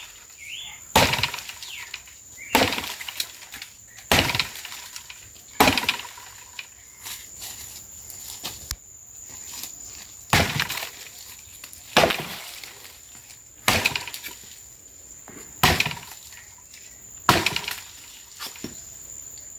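Axe chopping into a wooden pole: about a dozen sharp, evenly paced blows, one every second and a half or so.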